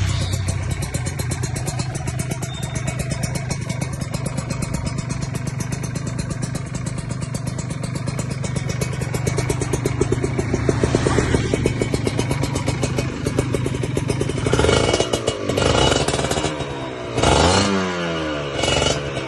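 Kawasaki Ninja 150RR SE two-stroke engine running steadily with a fast firing rhythm, then revved in several short throttle blips near the end, its pitch rising and falling with each one.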